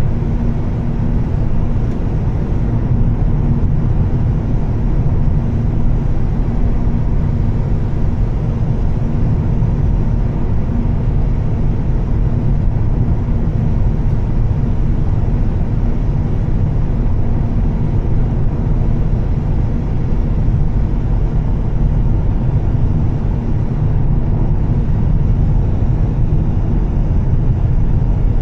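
2013 Volvo S60 T6 driving at a steady pace: a constant low rumble of engine and road noise that holds even throughout, with no revving or gear change.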